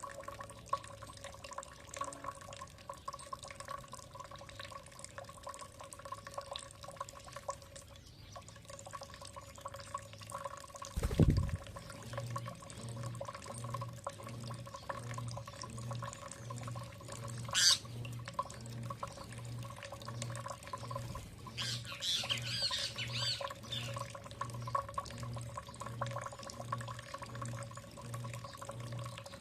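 Songbirds at a feeding spot: a single short high call, then a brief burst of warbling song, over steady dripping and trickling water with many small clicks. A loud low thud falls away about eleven seconds in, after which a low pulsing repeats about one and a half times a second.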